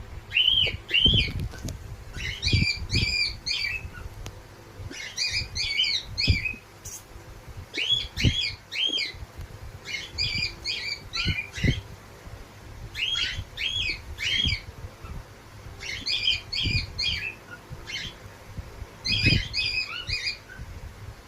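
A pet bird calling over and over in clusters of quick, high notes, a new cluster roughly every two seconds, with scattered low thumps in between.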